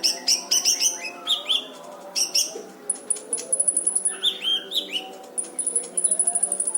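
A kolibri ninja sunbird singing hard: quick sharp chirps, then two runs of very fast, high-pitched trilled notes, one in the middle and one near the end, over a low steady hum.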